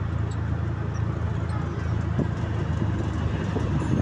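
A motor vehicle running: a steady low engine rumble with road noise.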